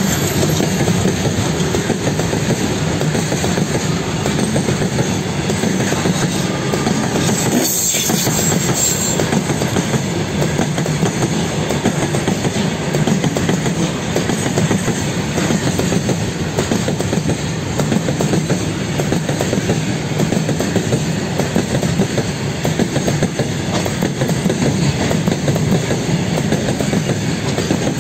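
Long freight train of covered goods wagons rolling past: a steady rumble with the clickety-clack of wheels over the rail joints.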